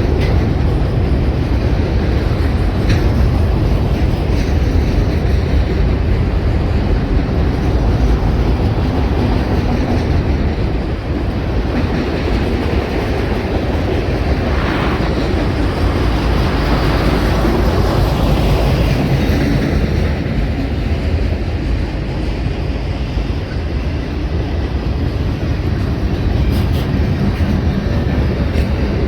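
A train rolling past: steel wheels running on the rails in a steady, heavy rumble, with a few sharp clicks along the way.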